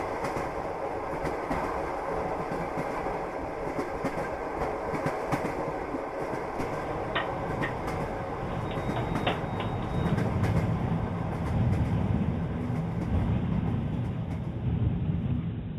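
Railway carriages running along the track, wheels clicking over rail joints against a steady running noise. About ten seconds in, a deeper rumble swells and grows louder.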